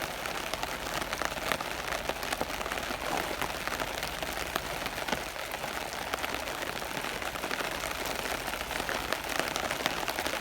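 Steady rain, with many separate drops ticking on a surface close by.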